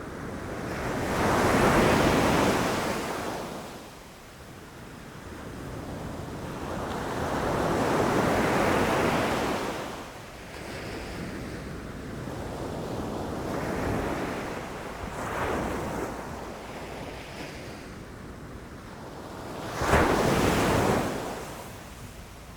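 Ocean waves breaking on a beach, the surf swelling and falling back about every six seconds; the last wave near the end crashes more suddenly.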